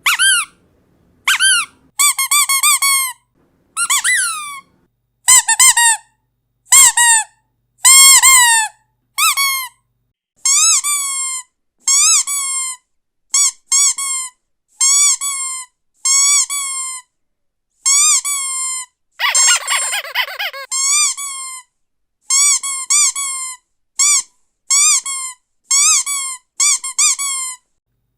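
Squeaky dog toy squeezed over and over: short, high, pitch-bending squeaks, singly and in quick runs of two to four, with gaps of silence between them. About two-thirds of the way through there is one longer, rougher squeeze.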